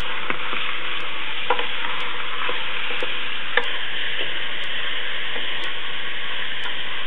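Strips of raw beef and sliced onion sizzling in hot oil in an aluminium pressure cooker as they are stirred with a wooden spoon. There are a couple of light knocks from the spoon against the pot.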